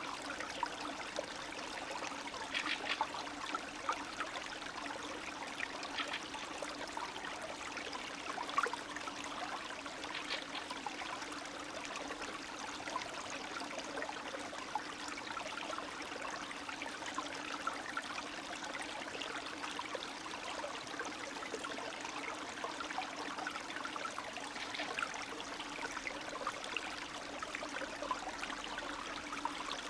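Small spring stream (snowmelt brook) running and trickling steadily, with a continuous babble of small splashes.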